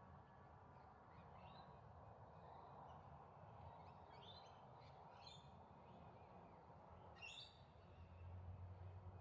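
Faint, scattered bird calls: a handful of short chirps, the clearest about seven seconds in, over quiet background hiss.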